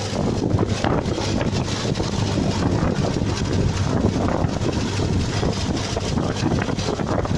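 1978 Triumph Spitfire 1500's four-cylinder engine running steadily, without change, shortly after a cold start.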